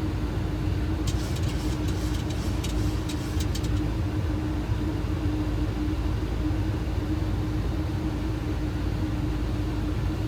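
Steady Boeing 737 flight-deck noise on approach: airflow and engine rush with a constant hum. About a second in comes a quick run of clicks lasting a couple of seconds.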